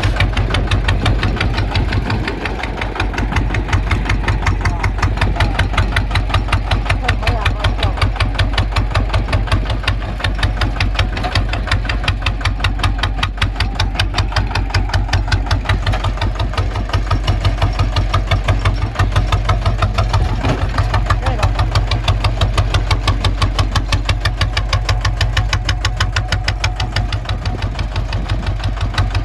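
Kubota ZT 155 tractor's single-cylinder diesel engine running steadily, with an even, rapid firing pulse.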